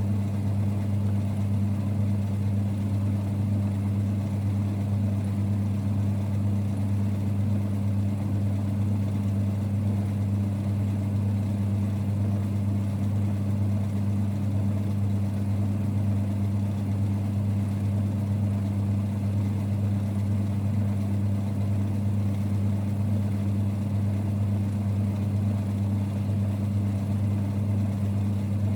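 1946 Boxford lathe running steadily: an even, low rumbling hum that does not change.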